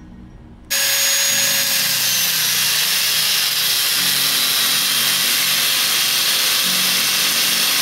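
Ossel GT091 angle grinder with a thin cut-off disc cutting through steel: a loud, steady hiss of abrasive on metal that starts abruptly about a second in. At its onset a thin motor whine sinks slightly as the disc bites.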